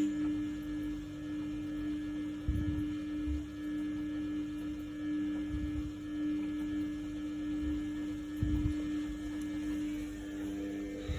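Samsung WF1700WRW front-loading washing machine running: a steady electric hum starts abruptly and holds, with soft low thuds about every three seconds.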